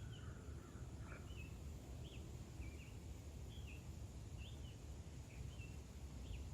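A small bird chirping: short, high, quickly bending notes, one or two at a time, about every half second to a second, over a faint steady low background rumble.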